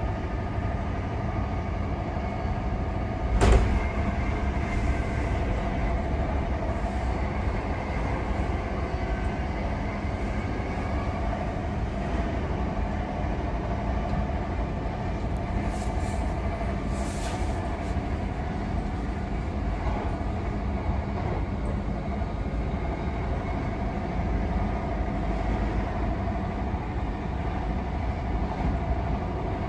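c2c electric passenger train running at speed, heard on board: a steady rumble of wheels on rail under a steady motor whine. A single sharp bang about three seconds in.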